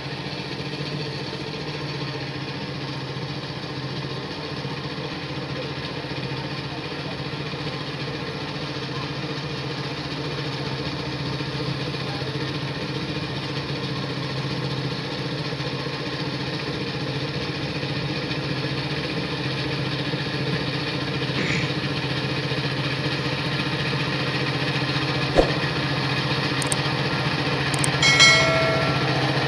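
Power tiller engine running steadily. A sharp click comes about 25 seconds in, and a brief high-pitched tone sounds near the end.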